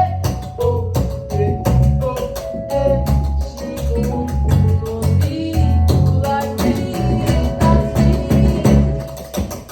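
Live band music with a steady percussive beat, a strong bass line and held melodic notes.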